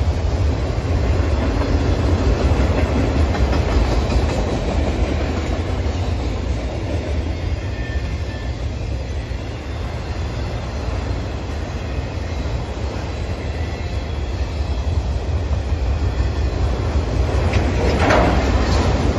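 Freight train of autorack cars rolling past close by, a steady low rumble of steel wheels on rail. A brief, louder sharper noise stands out near the end.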